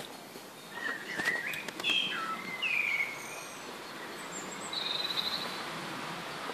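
Small bird singing: a run of short sliding whistles and chirps in the first three seconds, then a brief high trill about five seconds in, over a steady outdoor hiss, with a few faint clicks among the first notes.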